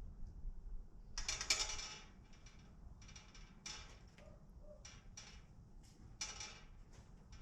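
An irregular series of short, sharp clicks and rattles, the loudest and longest about a second in and another near the end.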